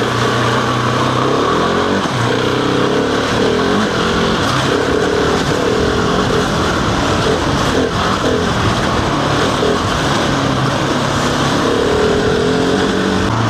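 Husqvarna 701's single-cylinder engine running as the motorcycle is ridden, its note holding fairly steady with slight shifts in pitch, under a steady rushing noise.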